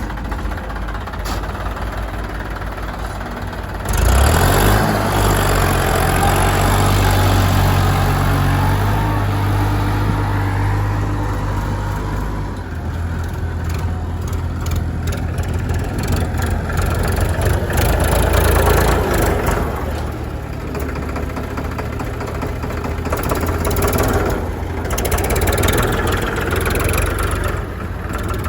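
Heavy diesel engine running. It gets much louder about four seconds in, then rises and falls in level as if working under changing load.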